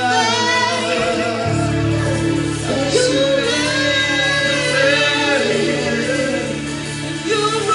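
Live gospel worship music: singers leading a song over a band, with a steady bass note coming in about a second and a half in.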